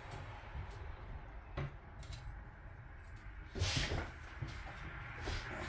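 Handling noises of outboard-motor parts during reassembly: a sharp click about a second and a half in, a louder half-second scrape about three and a half seconds in, and a few small ticks near the end.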